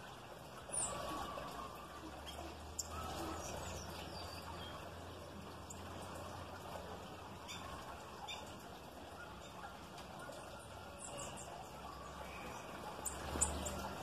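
Small wild birds at a feeder giving scattered short, sharp chirps, loudest about a second in and near the end, over a steady low background hum.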